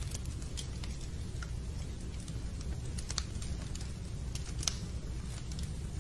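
Fireplace crackling: irregular sharp snaps and pops over a steady low rumble of the fire.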